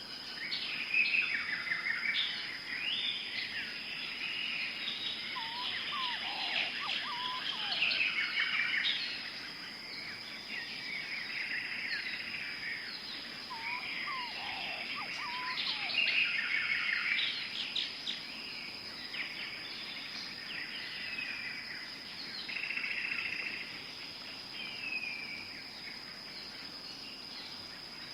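Tropical forest ambience: many birds chirping and calling over one another, over a steady high-pitched insect drone. Twice, a bird adds a few short, lower calls.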